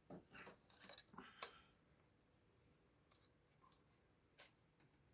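Faint clicks and rustling of small electronic parts being handled on a workbench, in a quick cluster over the first second and a half, then two single ticks near the end.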